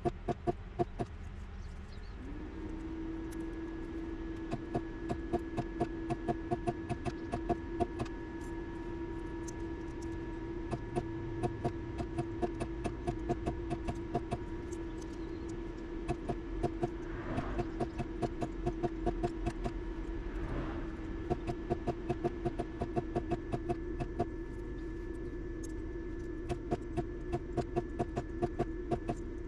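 A steady electrical hum that comes in about two seconds in and holds, over a fast, even ticking.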